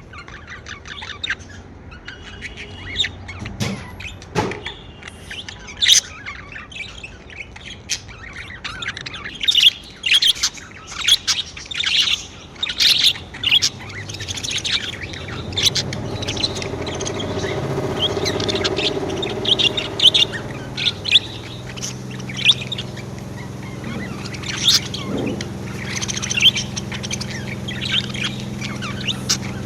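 Pet budgerigars chirping and warbling in quick, short bursts, busiest in two stretches. A steady low hum comes in about halfway and runs under the chirps.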